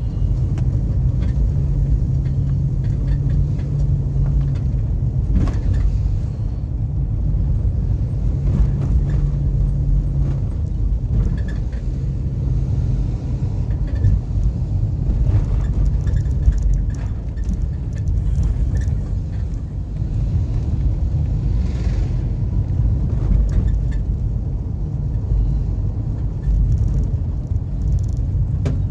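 Car driving: a steady low rumble of engine and tyres on the road, with occasional brief knocks and rattles.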